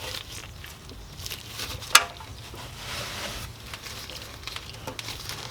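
Scattered clicks and scrapes of a wrench being worked on the 17 mm drain nut of a Honda Accord's oil pan, with one sharp metallic clack about two seconds in.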